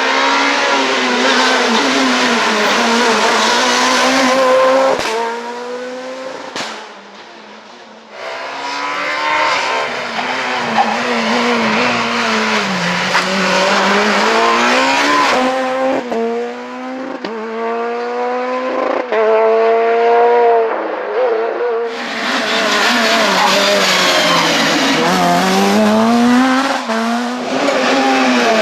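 Super 2000 rally cars' engines at full throttle, pitch climbing and dropping sharply through a string of quick gear changes, including a run of rapid upshifts about two-thirds of the way through. The sound changes abruptly a few times as one pass gives way to another, with a quieter, more distant stretch about a quarter of the way in.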